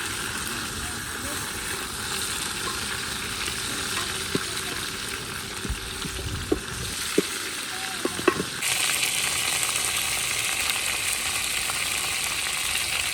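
Food frying in hot oil in a cooking pot over a wood fire, a steady sizzle with a few sharp knocks of a utensil against the pot during stirring. About two-thirds of the way through, the sizzle suddenly becomes louder and hissier.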